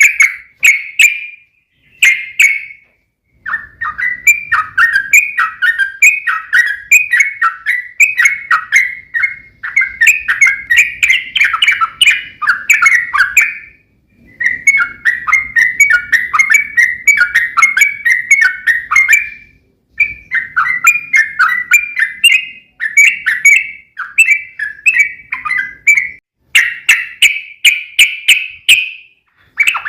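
Yellow-vented bulbul (trucuk) singing long runs of rapid, bubbling chirps, with a few short pauses between phrases.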